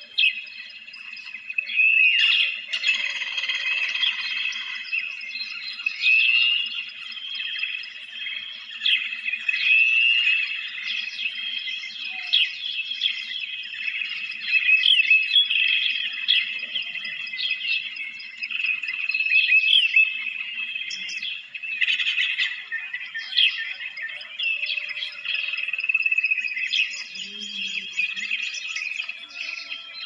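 Several birds chirping and calling together, a dense chorus of short chirps, curved whistled notes and trills that rises and falls in loudness.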